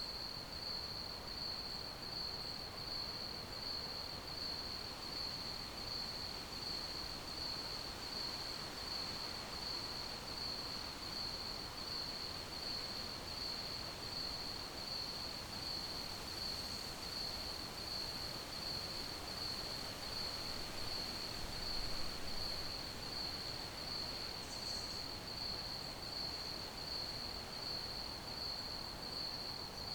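Crickets chirping in a steady, evenly pulsing high-pitched trill over a soft background hiss. A brief low bump comes about two-thirds of the way through.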